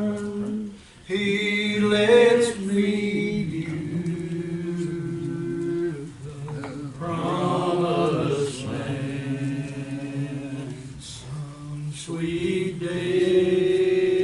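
Slow gospel song sung with long held notes, phrase by phrase, with brief breaths between lines.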